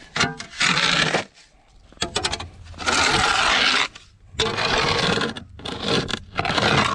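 Several rough scraping strokes, each about a second long, with a few sharp clicks between them.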